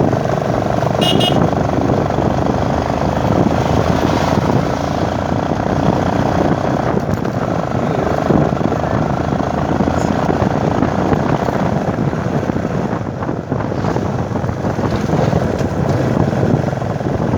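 Motorcycle running steadily at road speed, a continuous engine drone under dense road noise. A short high-pitched tone sounds about a second in.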